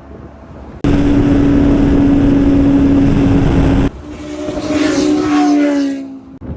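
Superbike engines at high revs: a very loud, steady engine note starts abruptly about a second in and cuts off suddenly about four seconds in, followed by engines revving with a slowly rising pitch.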